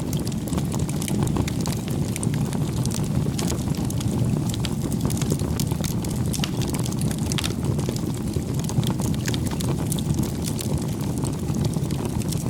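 Wood fire burning, with a steady low rushing noise and frequent sharp crackles and pops scattered throughout.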